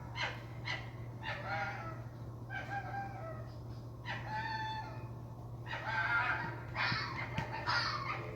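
Chicken clucking and crowing: a series of short pitched calls spaced about a second apart.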